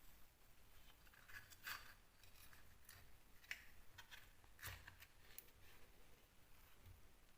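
Near silence with a handful of faint short scrapes and clicks of hand tools being worked, clustered between about one and five and a half seconds in.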